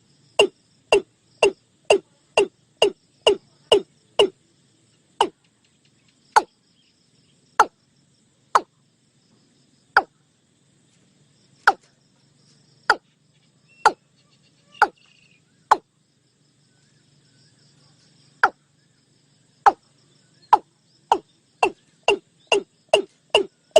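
Male watercock calling: a long series of short, hollow notes, each falling quickly in pitch. The notes come about two a second, slow to about one a second with pauses in the middle, then quicken again near the end.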